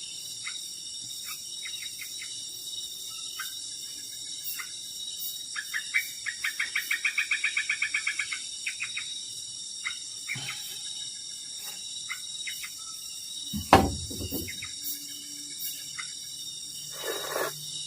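Forest at dusk: a steady high insect drone with scattered bird chirps, and about six seconds in a fast trilling call of some twenty even notes lasting about two seconds. A single sharp knock sounds about fourteen seconds in.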